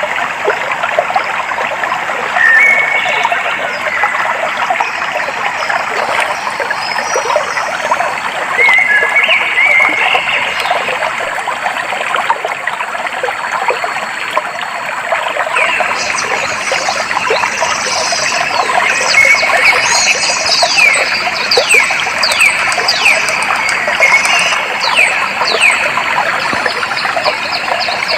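A stream trickling and flowing steadily over stones, with birds calling over it. Short calls come early on; from about halfway, a bird sings a rapid series of falling whistled notes.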